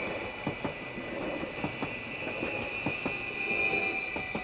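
Dutch electric passenger train passing a level crossing, its wheels rumbling and clicking irregularly over the rail joints. Under it runs the crossing's warning bell, ringing steadily.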